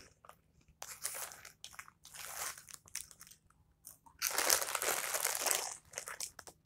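Hot Fries corn snack being bitten and chewed close to the microphone: bouts of crisp crunching, the longest and loudest starting about four seconds in.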